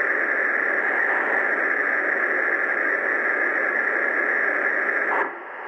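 MTH Proto-Sound O-scale model locomotives running with their onboard sound systems turned up loud: a steady, throaty engine sound that cuts off suddenly about five seconds in.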